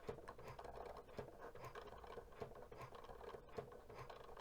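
Cricut Joy cutting machine cutting an infusible ink sheet: a faint steady motor hum with light scratching from the blade and quick irregular ticks as the carriage moves.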